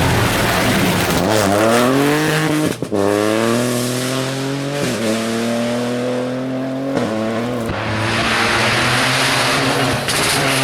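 Rally car engine accelerating hard, its pitch climbing and dropping at quick upshifts about every two seconds. Near the end a rushing noise from tyres and wind grows louder.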